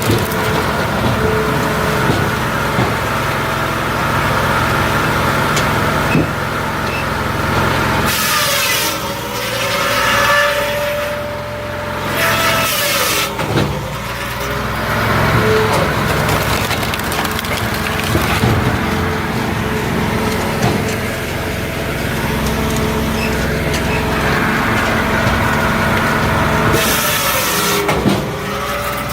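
Multitek 1620SS firewood processor running on its 44-hp diesel engine, a steady mechanical drone. Several times the machine's note dips under load and noisy bursts break in as logs are cut and split, with wood cracking and splintering.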